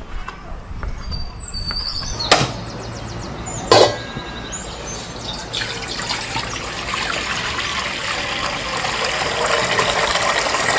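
Two sharp knocks, then liquid pouring into a cooking pan, the hiss building and staying steady through the second half.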